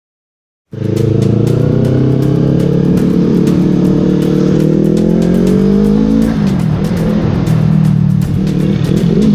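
Yamaha R3 motorcycle's parallel-twin engine running through its exhaust, starting abruptly just under a second in; the engine note climbs slowly, then the revs rise and fall several times near the end. Music plays underneath.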